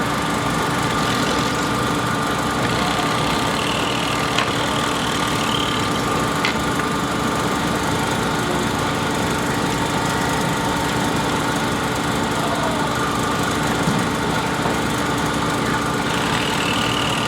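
A construction machine's engine running steadily at idle, with a few faint clicks and knocks over it.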